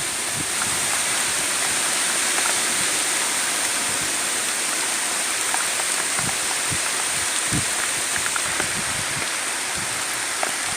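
Heavy rain falling in strong wind, a steady dense hiss, with a few brief low thuds near the middle.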